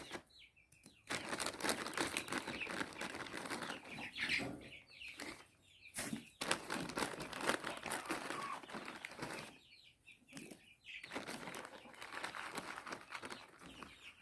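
Crinkling and rustling of a plastic bag of frozen berries being handled, with chickens moving about and giving a few short clucks.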